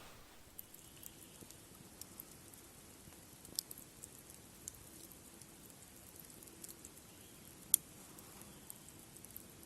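Sparse, faint clicks and ticks over a quiet background, with one sharper click about three-quarters of the way through.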